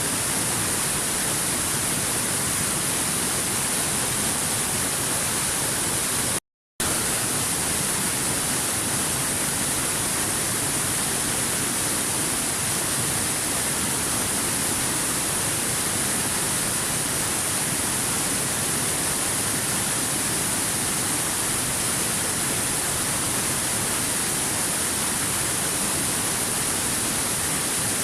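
Waterfall: water falling in a steady, even rush with a strong hiss. It cuts out completely for a split second about six seconds in, then resumes unchanged.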